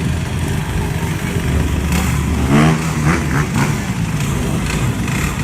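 Off-road motorcycle engines running, with one bike revving up about two and a half seconds in.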